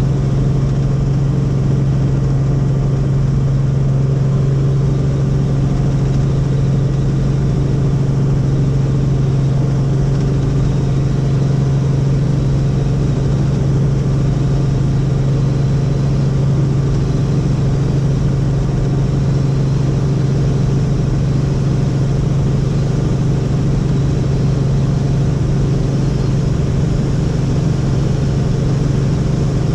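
Helicopter in steady cruising flight: a continuous, even rotor and turbine drone with a strong low hum and steady higher tones.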